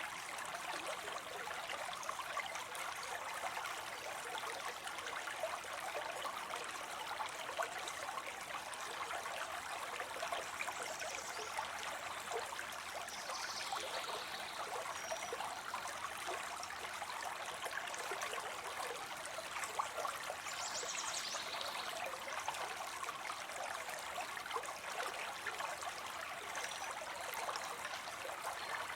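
Water spilling steadily into a pond, an even splashing and trickling that doesn't change, with a few faint high chirps around the middle.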